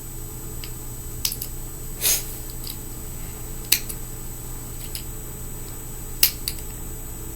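A handful of sharp, small clicks spread over several seconds, one a short scrape, from fingerboard truck parts and a small tool being handled while a truck that is not seating right is worked on.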